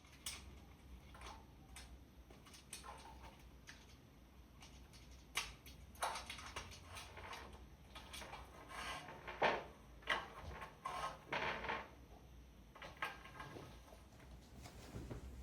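Irregular small knocks, clicks and short rustling scrapes, like objects being handled and set down, over a steady low hum.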